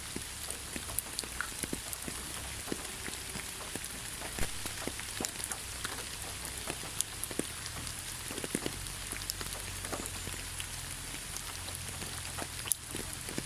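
Steady rain falling in a rainforest, an even hiss with many separate drops striking.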